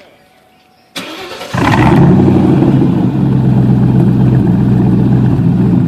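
2004 Ford Mustang GT's 4.6-litre V8, exhaust with the mufflers deleted (stock cats and resonators kept), cranking briefly about a second in, catching and flaring up, then settling into a loud steady idle.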